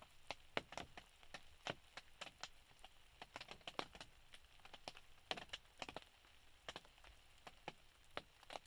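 Rain and drips from melting ice tapping on the roof of a hunting blind: irregular sharp ticks, several a second, over a faint hiss.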